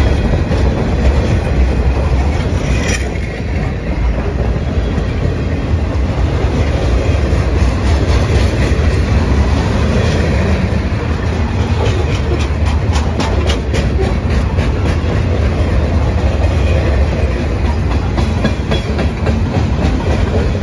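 Freight cars of a long manifest train rolling past at close range: a steady low rumble with runs of rapid clicks as the wheels cross rail joints, thickest from the middle of the stretch on.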